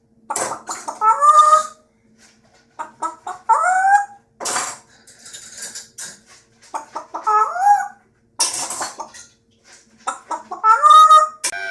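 A bird's loud squawking calls in four bouts, each a rising cry with harsh, scratchy noise, separated by short pauses.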